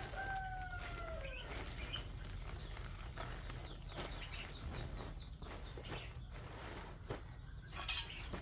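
Steady high-pitched insect drone, with a long call falling in pitch near the start and scattered light clicks and knocks; a brief louder rustle comes just before the end.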